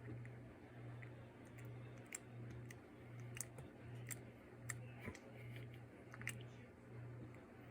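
Faint, scattered wet clicks and smacks from young puppies' mouths, over a low hum that pulses about one and a half times a second.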